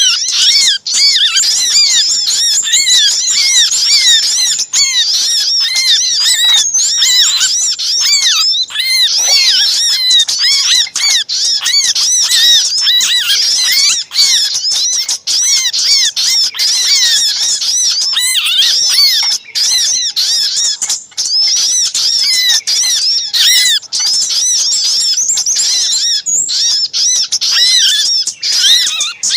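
Bird-lure recording of many small birds calling at once: a dense, unbroken tangle of shrill, squeaky chirps. These are agitated alarm calls and 'caught' distress calls of small birds such as prinias.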